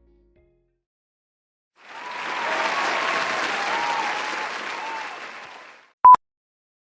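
Applause with faint whistles or cheers in it, starting about two seconds in, lasting about four seconds and fading out, followed by one short, high beep.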